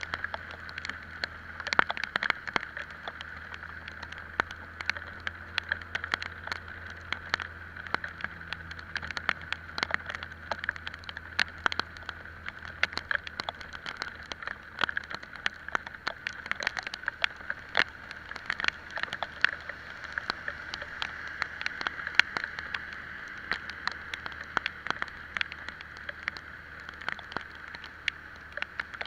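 Raindrops striking the microphone or camera housing in many irregular sharp clicks, over the steady low hum of a moving Italika Vitalia 125 scooter and its road and wind hiss.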